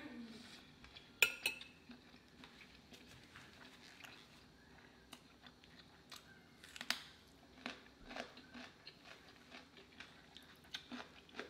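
A person chewing food quietly, with faint wet mouth clicks and a sharper click about a second in.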